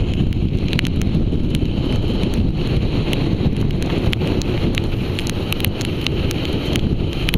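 Strong coastal wind buffeting the microphone, a loud, steady low rumble. Scattered small sharp ticks run through it.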